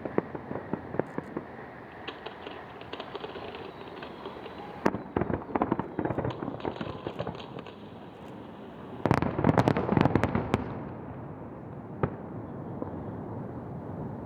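Fireworks display over the sea: a run of sharp bangs and crackling shell bursts. The loudest part is a dense volley of cracks about nine seconds in, lasting a second and a half, then a lingering rumble and a single late bang.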